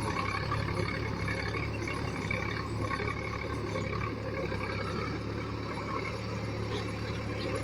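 Diesel engine of a JCB 3DX backhoe loader running steadily at a working pace, a constant low hum with some mechanical clatter.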